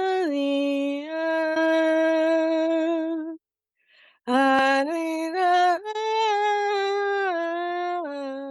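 A woman's voice vocalising light language: long, held wordless tones that step down and up in pitch, broken by a short pause for breath about three and a half seconds in.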